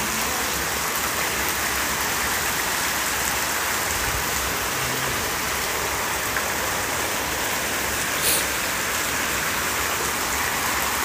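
Heavy rain pouring steadily, an even hiss, with one slightly louder splash about eight seconds in.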